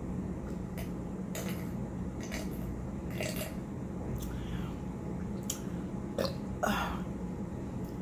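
Mouth sounds of a person eating, with a few short clicks, over a steady low hum; a short, louder throaty sound comes about six seconds in.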